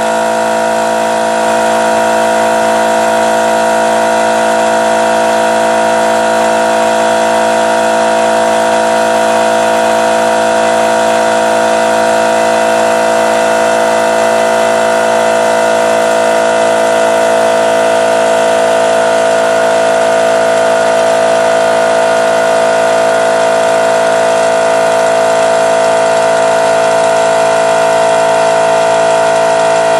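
Harbor Freight Central Pneumatic 2-horsepower, 8-gallon air compressor running steadily with a constant motor-and-pump hum, building pressure in its closed tank.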